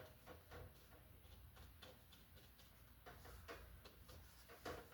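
Near silence with faint, irregular soft taps and dabs of a paintbrush mixing acrylic paint on a palette.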